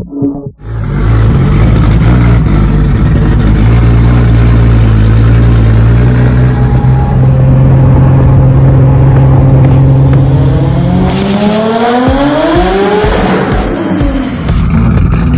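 Car engine running at a steady note, then revving up for about three seconds and falling away, before settling back to a steady run.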